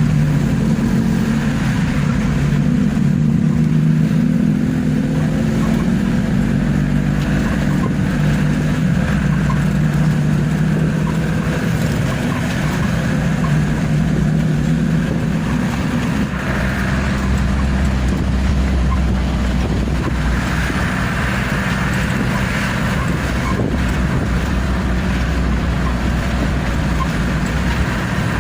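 Truck engine running as the truck drives. About halfway through, the engine note drops to a lower, deeper hum.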